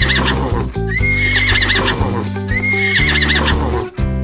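Horse whinnying over background music, the call repeated about every two seconds. Each whinny is a high held note that breaks into a shaky, falling warble.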